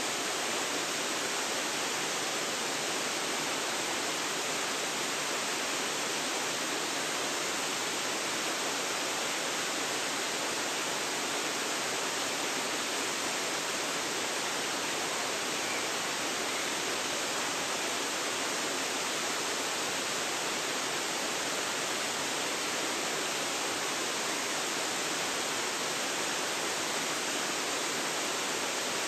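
Waterfall pouring steadily: an even rush of falling water with little deep rumble, picked up by a phone's built-in microphone.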